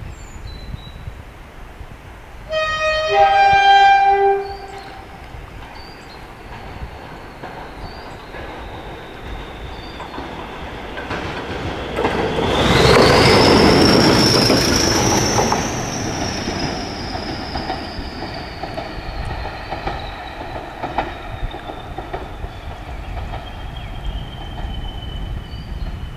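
Class 20 diesel locomotive, with its English Electric 8SVT engine, running light at speed: a two-tone horn blast, high then low, about three seconds in, then the engine passes loudly at around the halfway mark. Its high turbocharger whistle rises on the approach and falls slowly in pitch as the locomotive draws away.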